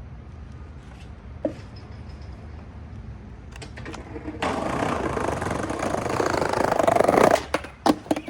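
Skateboard wheels rolling over rough pavement. The rolling noise starts suddenly about four seconds in and grows louder for about three seconds, then cuts off. A few sharp clacks of the board follow near the end.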